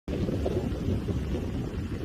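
Strong wind blowing in gusts and buffeting the microphone, heard as a low, uneven rumble.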